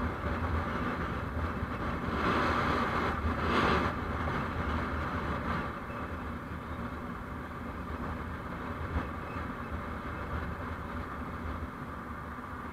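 Steady road and engine noise of a moving vehicle, with a louder rush of noise between about two and four seconds in.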